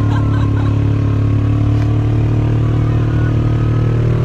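A vehicle engine running steadily at an even speed, with a constant low hum.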